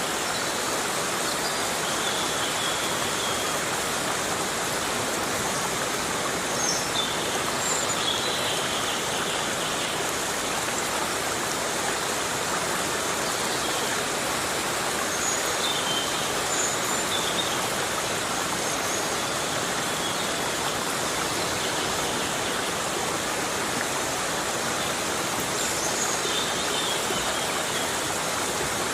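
Heavy rain falling steadily on rainforest foliage, an even, unbroken hiss.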